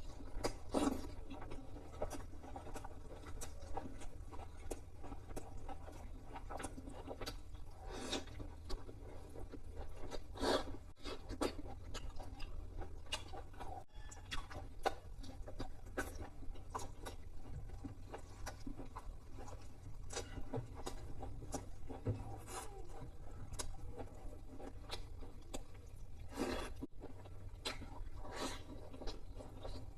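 Close-miked chewing and crunching of fried chicken: irregular crisp crunches and mouth sounds throughout, over a steady low hum.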